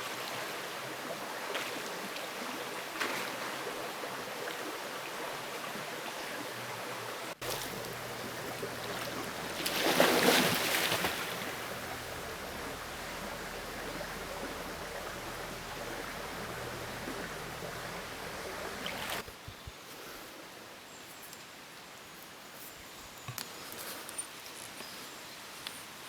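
Steady rushing water of a stream, with a louder swell about ten seconds in. After about nineteen seconds it gives way to a quieter background with a few light rustles and clicks.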